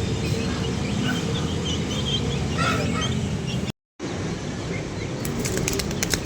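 Birds chirping in short high calls over steady low background noise. The sound drops out for a moment a little under four seconds in, and a quick run of sharp clicks comes near the end.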